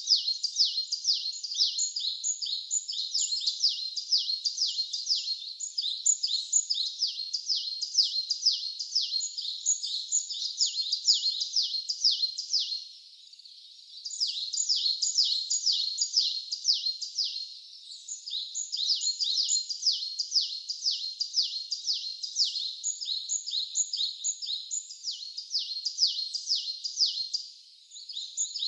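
A bird singing a long, fast run of high, downward-sweeping notes, several a second, with a short pause about thirteen seconds in.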